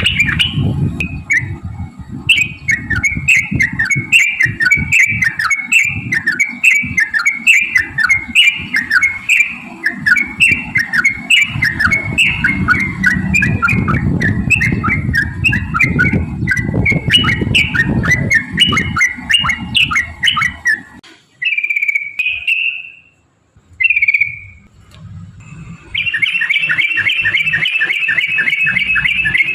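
Yellow-vented bulbul (trucukan) singing a long run of quick, repeated falling phrases. After a short break with a couple of single notes, it goes into a fast, dense trill near the end. A low rumble sits under the first two-thirds.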